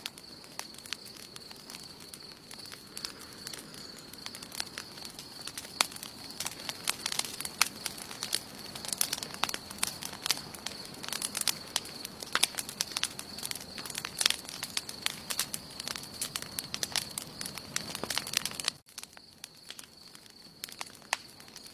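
Wood campfire burning, with frequent sharp crackles and pops over a steady thin high-pitched tone. The sound drops abruptly about nineteen seconds in, and after that the crackling is quieter and sparser.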